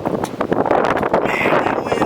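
Wind buffeting the microphone, with scattered short metal clicks and scrapes as vise grips turn a rusted muffler loose from a Briggs & Stratton lawn mower engine. A brief squeak comes about a second and a half in.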